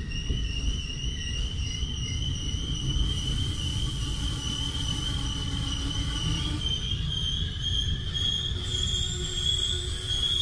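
A moving passenger train heard from inside the carriage: a steady low rumble with a sustained high-pitched whine that rises slightly in pitch.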